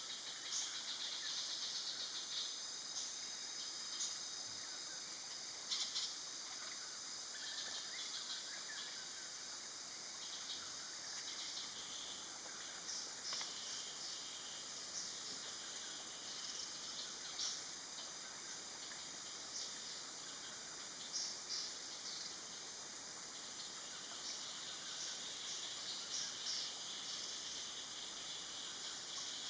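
Steady high-pitched drone of insects in natural surroundings, with short high chirps scattered through it.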